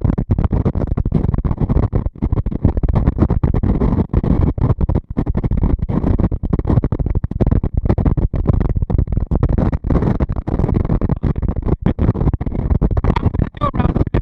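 Strong wind buffeting the microphone: a loud, rough low rumble that keeps breaking up in gusts.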